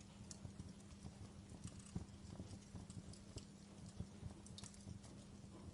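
Wood logs burning in a fireplace, crackling and popping in small irregular snaps over a low steady rumble of the flames.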